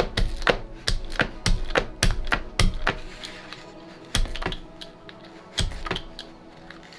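Quick sharp tapping, three or four taps a second, as a hand-carved lino-cut stamp is dabbed against an ink pad, then two single firmer presses of the stamp about four and five and a half seconds in. Faint background music underneath.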